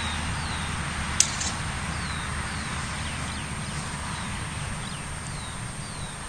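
A bird calling in a series of short, falling chirps over a low steady rumble, with one sharp click about a second in.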